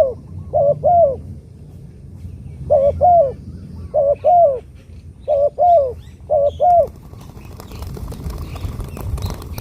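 Spotted dove cooing: short phrases of paired, low coos repeated several times, which stop about seven seconds in and give way to a soft rustling noise.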